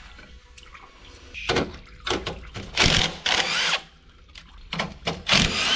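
Several short bursts of power-tool noise, the longest lasting about a second near the middle.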